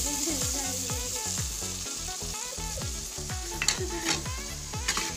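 Chicken pieces sizzling in hot oil in a steel cooking pot, a steady frying hiss, with a few sharp clinks near the end.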